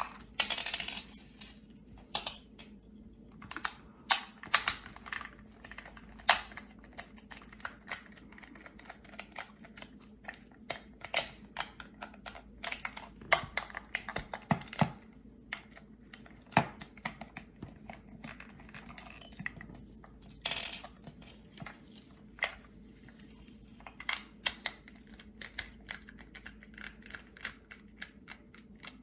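Irregular clicks and taps of a thin Phillips screwdriver working on the plastic housing of a boiler zone-valve electric actuator as its four screws are undone, with a couple of short scraping sounds.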